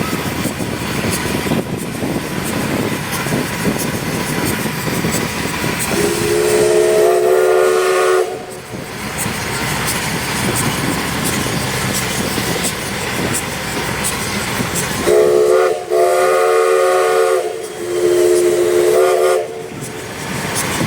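Steam locomotive whistle blowing several notes at once over a steady hiss and rumble: one long blast, then about seven seconds later a short blast followed by two longer ones.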